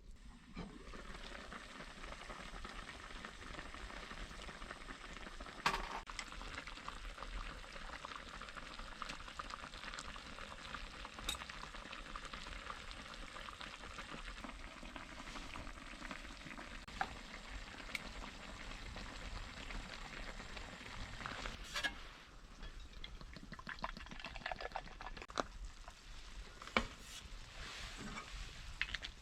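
Food sizzling as it fries in a pan, with a few sharp clicks. About 22 seconds in the sizzle dies down and gives way to scattered clicks and knocks.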